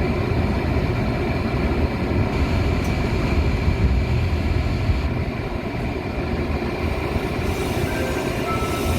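Metra commuter train running with a steady low rumble and a faint steady high whine.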